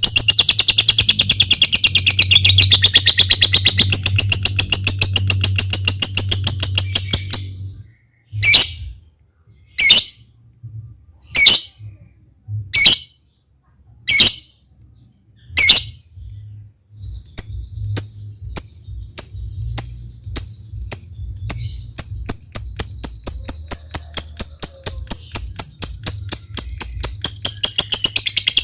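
Lovebird song: a long, fast trill of rapid high chirps (the 'ngekek') that breaks off about eight seconds in. Six single sharp calls follow over the next eight seconds. Then quick ticking notes (the 'ngetik') speed up into another long trill. A low steady hum runs underneath.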